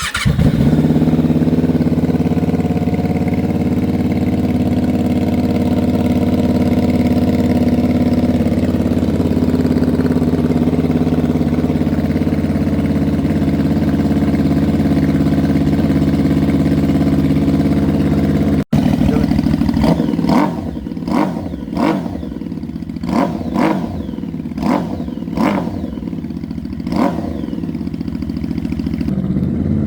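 QJMotor SRV600V V-twin motorcycle engine starting and idling steadily through its exhaust, then, after a brief break, revved in a quick series of about ten short throttle blips before settling back.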